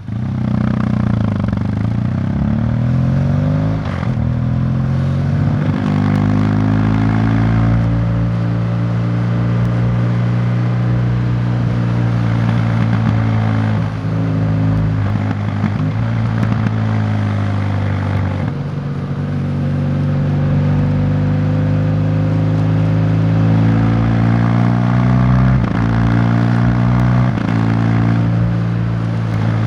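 A vehicle engine running under way, its pitch climbing as it pulls and dropping sharply at each gear change, several times over.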